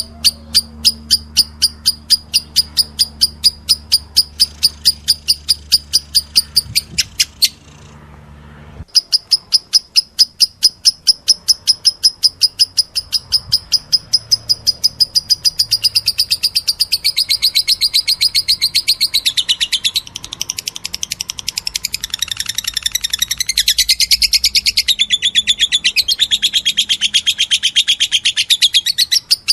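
Lovebird giving rapid, rhythmic begging chirps, about five a second, as it is hand-fed. The chirping breaks off briefly about eight seconds in, then grows busier and more varied from about sixteen seconds on.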